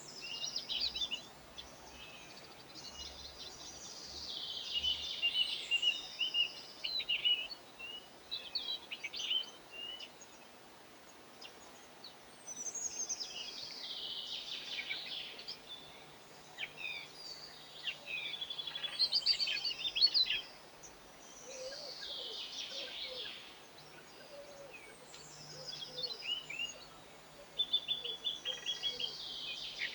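Small songbirds twittering and chirping in repeated bouts of fast, high trills a second or more long, with short pauses between.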